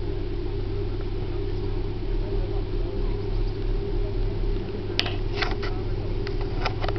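Peugeot 406 Coupé's engine running at low speed as the car rolls slowly across grass, a steady low hum. A quick series of sharp clicks starts about five seconds in.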